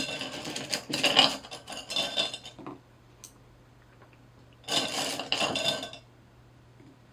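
Small metal pieces clinking and rattling together in two bursts: one of about two and a half seconds, then a shorter one of about a second near the end.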